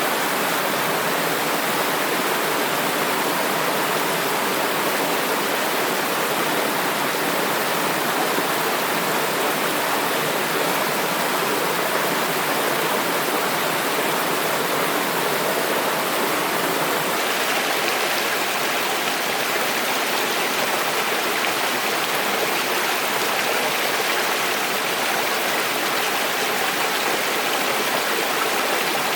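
Flowing water rushing steadily, its tone shifting slightly about seventeen seconds in.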